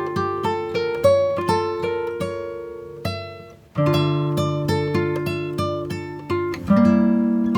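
Background music: acoustic guitar picking a melody of plucked, ringing notes, with a short pause about three and a half seconds in.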